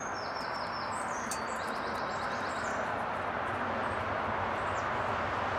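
A small songbird singing: a run of quick, high, falling chirps, then a fast trill about a second and a half in, with a few single high notes later. Under it runs a steady rushing background noise.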